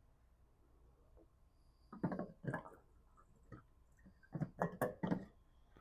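A few short knocks and clunks of handling: a small cluster about two seconds in, one more a second later, and a quick run of them near the end.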